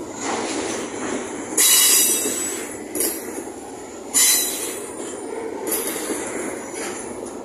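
Container train wagons rolling past slowly with a steady rumble of steel wheels on rail. Several loud bursts of high-pitched wheel screech cut in, the loudest about a second and a half in and again about four seconds in.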